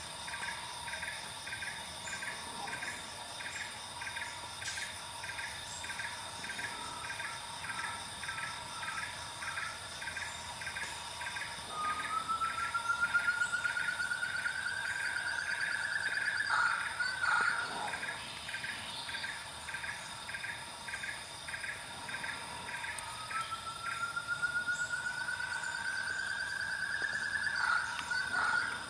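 A bird calling in long, slowly rising whistles, twice, each a few seconds long and ending in a quick dip. Under it runs a steady series of short pulsed calls about two a second, with a constant high insect drone.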